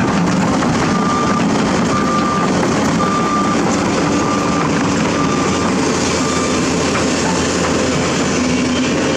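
Reversing alarm on a Hino 500 ready-mix concrete truck, beeping about once a second over its running diesel engine; the beeps fade out after about six seconds while the engine keeps running.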